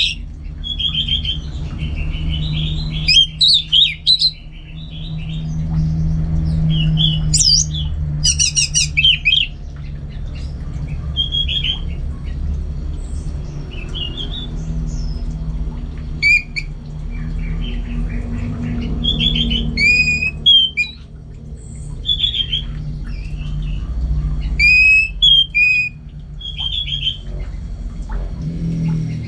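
Orange-headed thrush singing in short, varied phrases of whistles and chattering notes, with pauses of a second or more between them. A steady low hum runs underneath.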